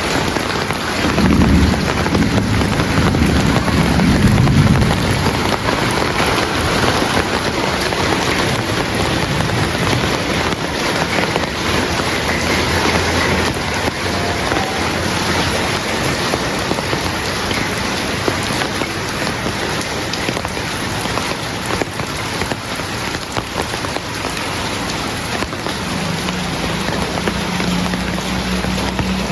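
Heavy rain falling steadily, with a low rumble of thunder a second or two in that fades by about five seconds. Near the end a steady low engine hum comes in under the rain.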